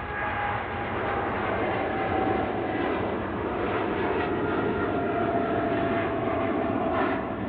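Boeing 777-300ER's twin GE90 turbofans running at takeoff power: a heavy, steady jet roar with a whining tone that slowly drops in pitch as the aircraft goes by.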